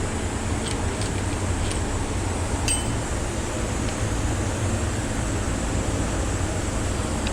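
Steady low rumbling background noise with a few light metallic clinks from engine parts being handled. The loudest clink rings briefly, about two and a half seconds in.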